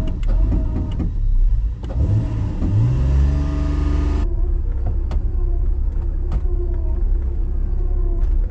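Off-road 4x4 engine running under load, revving up in pitch over a couple of seconds, then an abrupt change about halfway through to a steadier engine note with scattered knocks and rattles.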